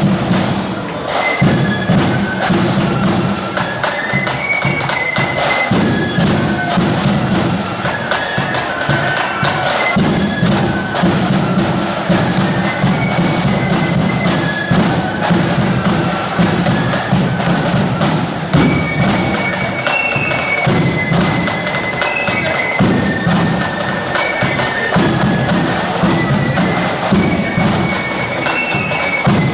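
Marching band playing a tune outdoors: a high wind melody over a steady low drone, with drums beating throughout.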